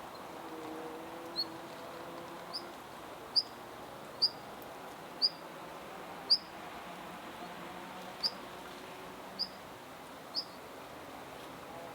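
Long-tailed rosefinch calling: about nine short, high chirps, roughly one a second and unevenly spaced, each a quick upward flick.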